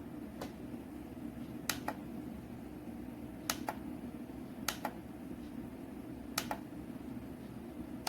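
Small rechargeable camping fan running with a steady hum, with sharp clicks, mostly in close pairs, coming every second or two.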